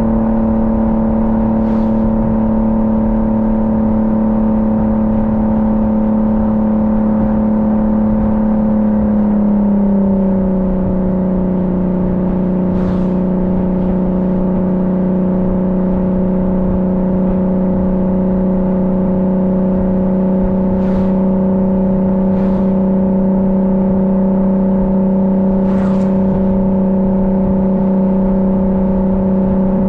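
Car engine droning at a steady cruise, its pitch easing down slightly about ten seconds in and then holding steady. A few faint ticks sound over the drone.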